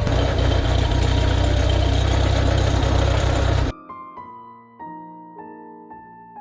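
An old tractor engine running steadily with an even low pulse, then cut off suddenly about two-thirds of the way in. Quiet piano-like keyboard music follows.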